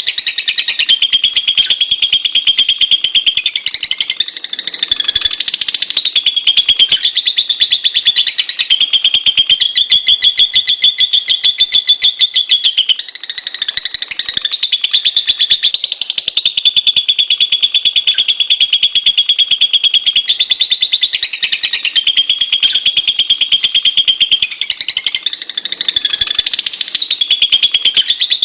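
Lovebird giving a long, unbroken shrill chattering trill: very rapid high-pitched notes that run on without a pause, shifting a little in pitch now and then.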